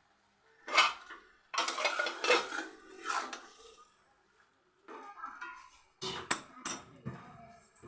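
A cooking spoon stirring and scraping meat around a pot as it is fried down with tomato, with a sharp clank about a second in and several quick knocks against the pot near the end.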